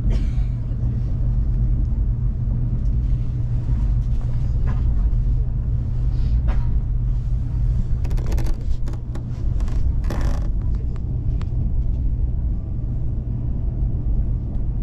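Cabin noise of a KTX-EUM high-speed train under way: a steady low rumble, with a few brief rustles or knocks between about four and ten and a half seconds in.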